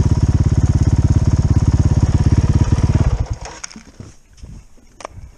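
Old pom-pom boat engine running with a fast, even chugging beat, then cutting out about three seconds in. A few small clicks and knocks follow in the quiet.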